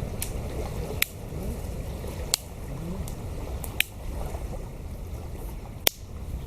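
Campfire wood popping: four sharp, separate cracks a second or two apart over a steady low rumble.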